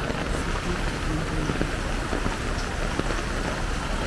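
Heavy rain falling steadily, with rushing floodwater: an even, unbroken wash of noise.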